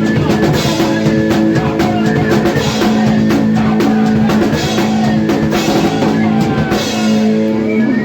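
A hardcore punk band playing live: loud, fast drum kit with bass drum and cymbals under a distorted guitar riff in an 80s hardcore style.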